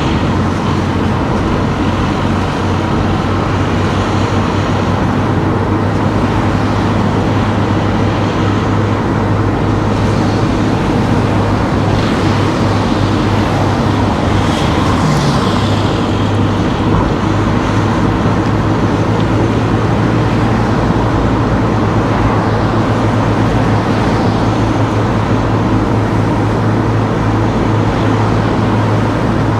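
A car driving along town streets: a steady low engine hum with tyre and road noise, and a brief swish about halfway through, as of another vehicle passing.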